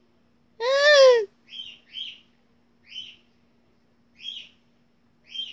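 Small bird chirping in short high notes roughly once a second. About a second in there is one louder, drawn-out call that rises and then falls in pitch.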